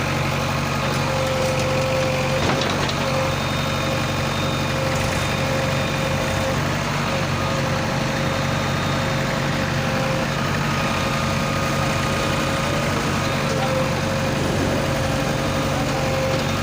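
Heavy diesel engine running steadily at a constant speed, with one brief knock about two and a half seconds in.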